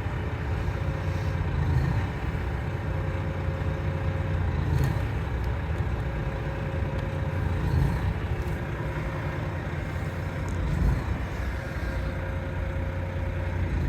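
Volvo FM410 truck's six-cylinder diesel engine running steadily with a low rumble.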